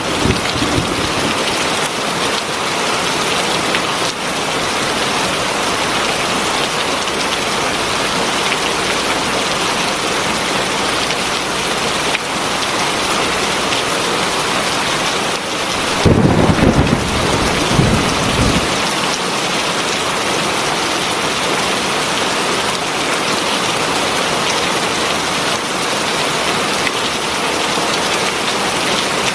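Heavy rain pouring steadily. About halfway through, a low rumble of thunder rises over it and fades after about two seconds.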